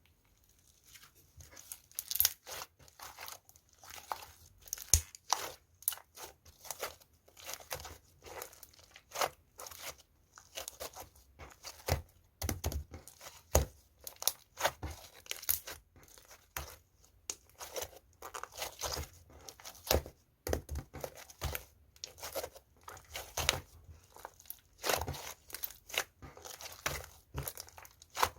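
Pink slime being kneaded, stretched and pressed by hand as clay is mixed into it, giving irregular sticky clicks and crackles several times a second.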